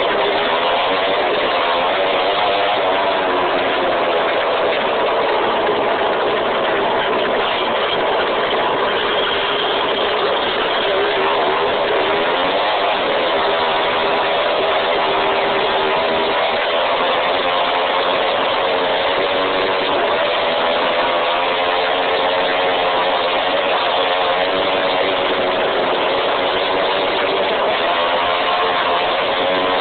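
Dirt bike engine running as it is ridden, its pitch wavering up and down with the throttle over a constant hiss.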